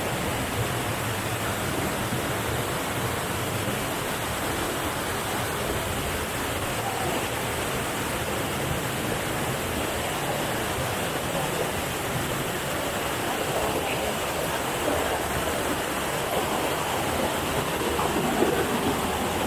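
Steady rush of a waterfall, falling water making an even, continuous noise.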